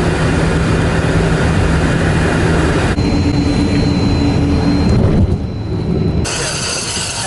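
Jet aircraft engine noise, a loud steady rush with a low hum and a high whine, changing abruptly several times as the footage cuts between shots.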